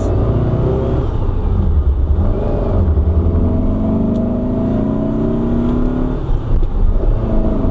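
Air-cooled 1900 cc VW flat-four on dual EMPI 40 IDF carburettors pulling under acceleration, with no flat spot. The engine pitch climbs steadily, dips about six seconds in as the revs fall, then holds steady.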